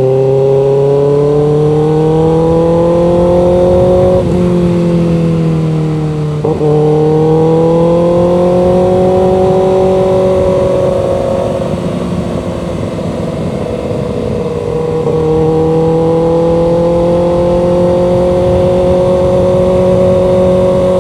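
Motorcycle engine accelerating through the gears, its pitch rising and dropping at upshifts about 4 and 6.5 seconds in, easing off in the middle and then pulling steadily at a cruise, with wind rush on the microphone.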